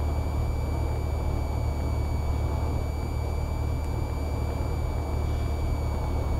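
Cessna 172R's four-cylinder Lycoming engine and propeller droning steadily in the cabin on final approach, with a thin high-pitched whine running over it.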